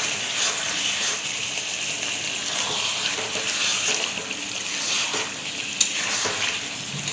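Chicken curry sizzling in a wok as it is fried down in the juices the chicken has released, stirred with a steel ladle that scrapes against the pan, with one sharp click about six seconds in.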